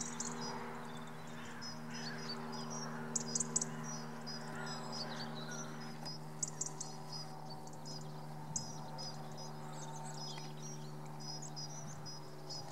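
Small birds chirping in quick, repeated high notes over a steady low hum. A few short, sharp clicks stand out about three seconds in and twice more later.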